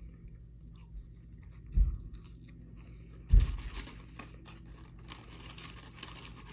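A person biting into and chewing a McDonald's McDouble cheeseburger close to the microphone: two dull thumps about two and three and a half seconds in, then steady crunchy chewing.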